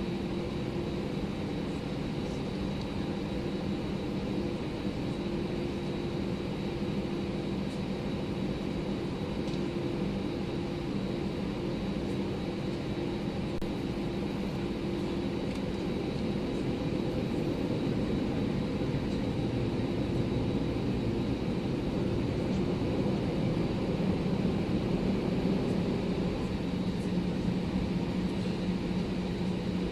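Cabin noise of an Airbus A319 with its engines running: a steady rush of air and engine noise with a low, even hum and a faint high whine. About two-thirds of the way through, the hum drops slightly in pitch and the noise grows a little louder.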